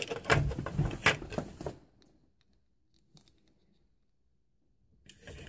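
Small plastic toy pieces handled and clicked: a quick run of clicks and rustles for about two seconds, then near silence.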